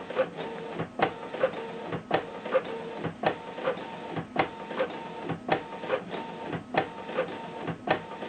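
Canon Pixma MG2470 inkjet printer printing: the print-head carriage shuttles with a steady whir, broken by a pair of sharp clicks about once a second as it reverses and feeds the paper.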